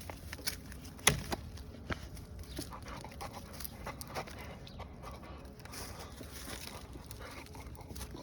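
A pit bull moving about while it works, with scattered short clicks and knocks and one sharper knock about a second in.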